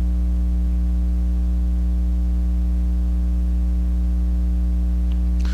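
Steady electrical mains hum with a stack of overtones, unchanging throughout, with a brief soft hiss right at the end.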